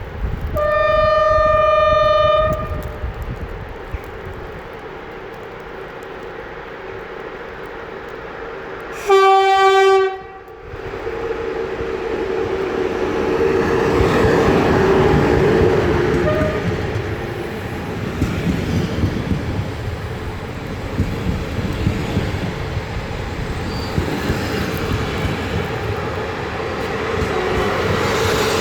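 CFR Class 40 electric locomotive sounding its horn twice: a higher note for about two seconds, then a louder, lower note for about a second and a half some seven seconds later. The train then rolls in with a steady rumble and clatter of wheels on the rails.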